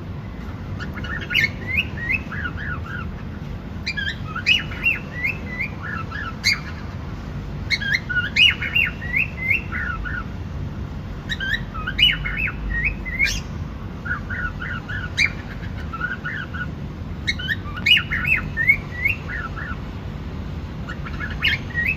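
Cockatiel chirping in short bursts of quick, sweeping chirps, a new burst every three to four seconds, over a steady low rumble.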